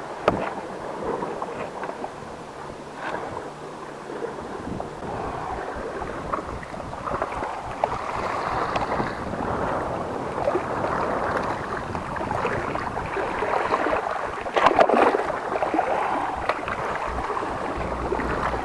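Sea waves washing against rocks, with wind buffeting the microphone.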